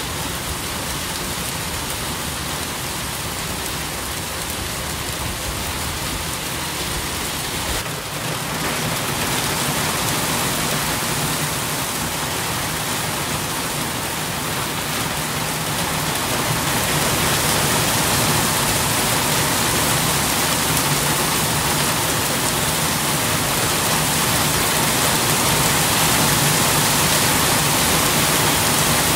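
Steady rain falling, an even hiss of drops that grows a little louder about eight seconds in and again a few seconds past the halfway point.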